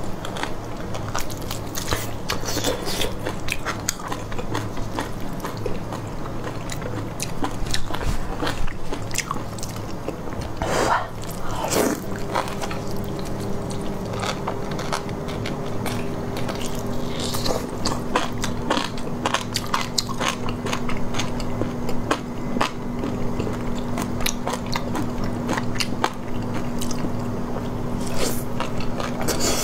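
Close-miked biting and chewing of a sauce-covered beef rib held in the hand, with many small sharp mouth and teeth clicks as the meat is worked off the bone.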